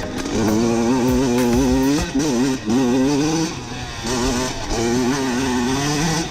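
Kawasaki KX85 dirt bike's 85 cc two-stroke engine revving up and down, its pitch wavering quickly as the throttle is worked.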